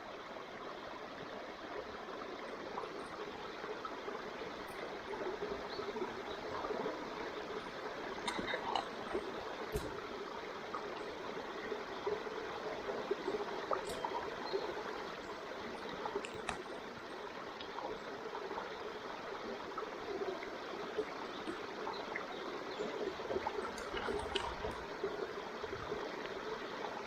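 Wood fire burning with a steady hiss and an occasional sharp crackle or pop.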